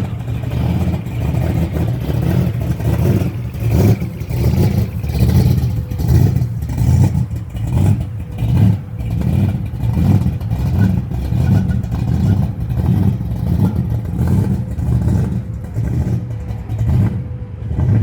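Car engine running, its low rumble swelling and easing about once a second as it is revved.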